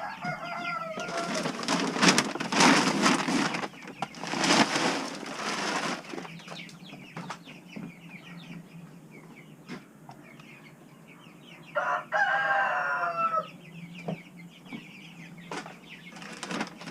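Chickens clucking and young birds peeping, with loud noisy bursts, like wings flapping, in the first few seconds. A rooster crows once, about twelve seconds in, over a steady low hum.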